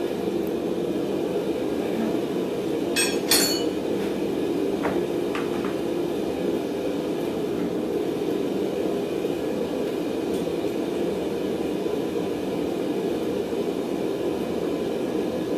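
Steady roar of blacksmith's forge and shop equipment, with a short cluster of metal-on-metal clinks about three seconds in and two light taps a couple of seconds later.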